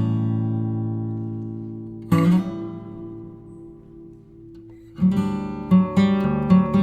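Background music played on acoustic guitar. One chord rings and fades at the start, another is struck about two seconds in and dies away, then a run of plucked notes begins about five seconds in.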